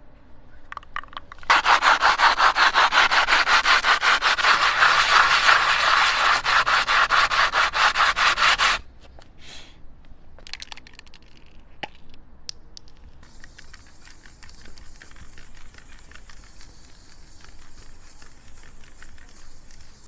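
Rapid, rhythmic scraping for about seven seconds, then stopping suddenly; scattered light clicks and a fainter steady scraping hiss follow.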